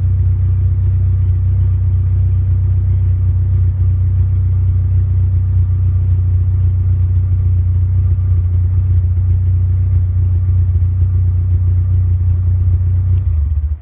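Volkswagen 2.0 ABA eight-valve four-cylinder engine of a dirt-track race car running steadily on its first start after a full rewire; it cuts off shortly before the end.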